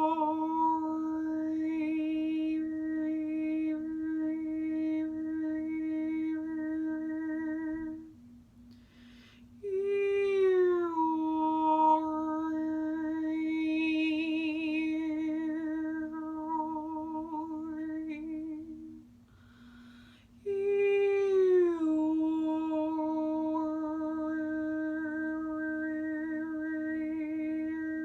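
Woman's overtone singing for sound healing: three long held notes, each opening with a short downward slide, with a whistle-like overtone rising and falling above the held pitch. A pause for breath comes after each of the first two notes, and a faint pulsing lower drone runs beneath.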